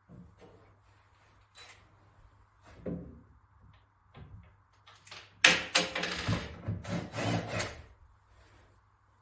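Wood knocking and scraping: a few scattered knocks, then, starting about five seconds in, a couple of seconds of dense clattering and scraping, the loudest part.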